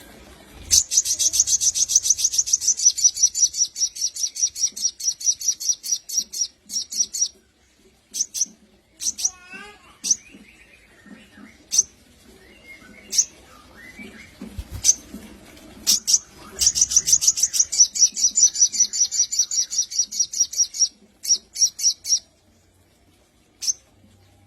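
Sogon songbird singing: two long, rapid trills of high, evenly repeated notes, the first starting about a second in and the second near the two-thirds mark, with single sharp chips and a short lower warble between them.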